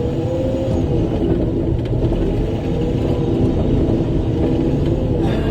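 Rock truck's diesel engine running steadily, heard from inside the cab: a deep rumble with a whine that rises and falls in pitch.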